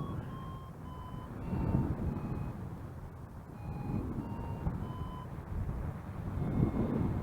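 Paraglider variometer beeping about twice a second, its pitch dipping and then rising again as the climb rate changes, which signals rising air. Wind buffets the microphone underneath.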